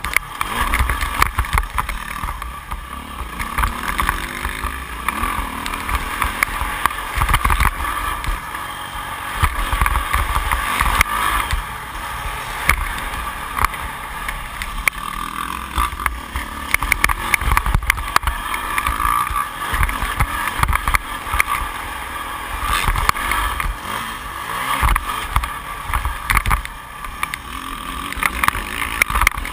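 Yamaha YZ450F four-stroke single-cylinder motocross engine running under load, its loudness rising and falling as the throttle opens and closes, heard muffled through a GoPro's sealed case along with many short low thumps from wind buffeting and bumps.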